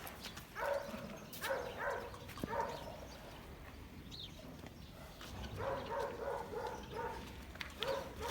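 A dog barking in short repeated bursts, in two spells: one near the start and another about two-thirds of the way through.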